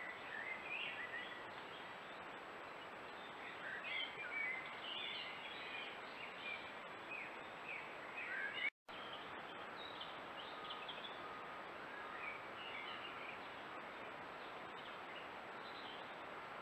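Small woodland birds chirping and twittering over a steady background hiss. The sound cuts out for a split second about nine seconds in.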